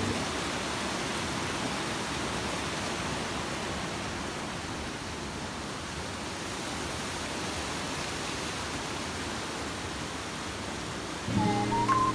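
Steady rushing of a mountain stream, an even hiss of flowing water. Music with a melody starts near the end.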